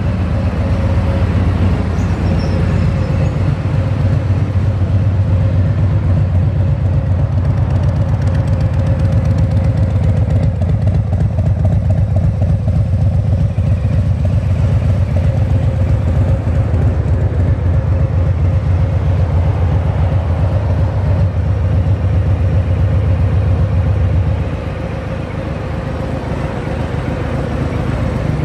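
2018 Harley-Davidson Fat Boy's Milwaukee-Eight 114 V-twin idling steadily through a Jekill & Hyde exhaust, with a deep, even pulsing beat. It gets somewhat quieter about four seconds before the end.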